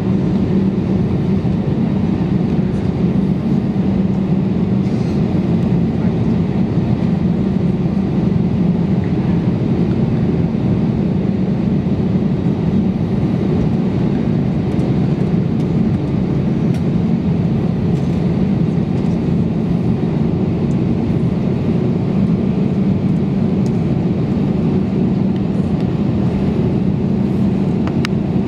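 Airbus A321neo engine and airflow noise heard from inside the passenger cabin: a loud, steady drone with a low hum that holds level throughout.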